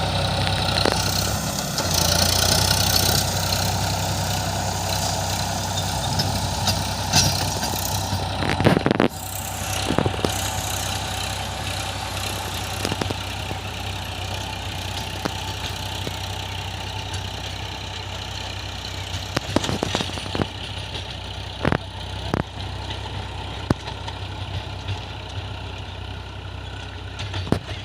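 Tractor engine running steadily, with scattered sharp knocks and clatters over it.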